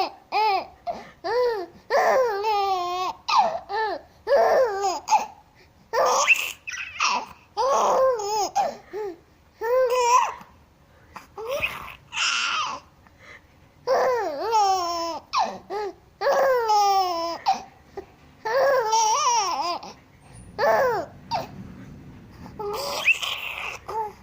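A baby babbling and laughing: a string of short, high-pitched cries and coos, each under a second long, with brief pauses between them.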